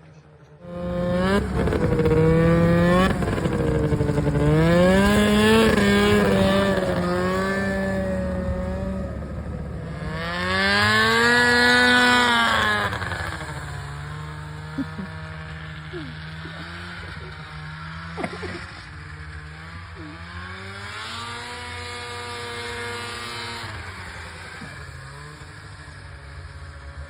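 Arctic Cat Cougar 550 snowmobile's two-stroke twin engine running through a new homemade muffler, revving and pulling away with its pitch rising and falling. About halfway through it settles to a lower, steadier note, then swells again near the end.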